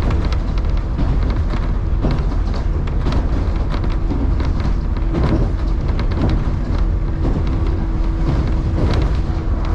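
Electric commuter train running at speed, heard from inside the car: a steady low rumble with frequent short clicks of the wheels over the rails, and a steady hum underneath.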